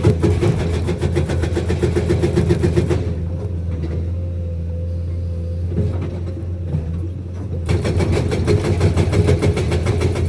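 Komatsu PC210 excavator's hydraulic breaker hammering rapidly over its running diesel engine. The hammering stops about three seconds in, leaving the engine running steadily, and starts again about three quarters of the way through.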